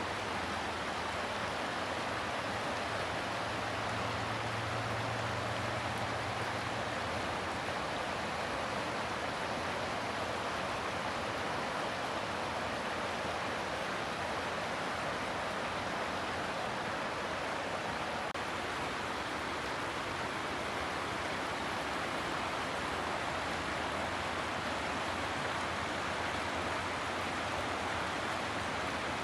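Steady rushing water, an even continuous hiss with no breaks or rhythm.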